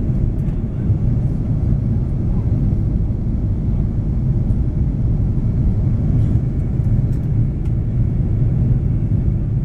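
Steady cabin roar inside an Airbus A330-200 in flight: the drone of its Rolls-Royce Trent 700 jet engines and the rush of air over the fuselage, a loud, even low rumble.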